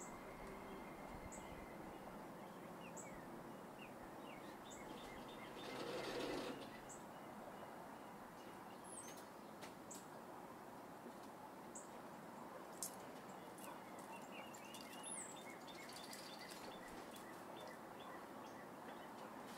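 Faint outdoor background noise with scattered short bird chirps throughout. A brief swell of rushing noise comes about six seconds in, and a few sharp clicks come later.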